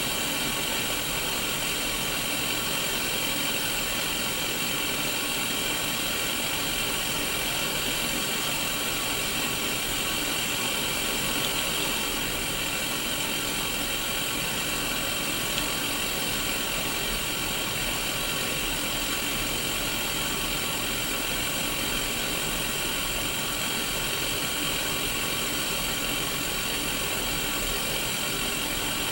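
Static hiss from a Sony Mega Watchman mini CRT TV with no signal, heard through its small speaker: a steady, even hiss with faint steady tones under it.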